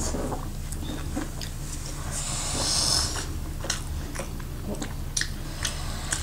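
Close-up eating sounds of people chewing barbecue and momo: scattered wet smacks and clicks of mouths and food, with a short burst of hiss between two and three seconds in. A steady low hum runs underneath.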